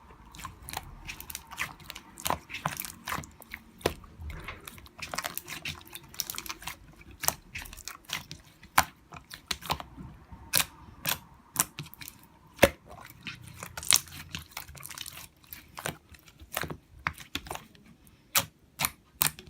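Glitter slime being squished and pressed by hand, giving irregular sticky clicks and pops, a few of them much louder than the rest.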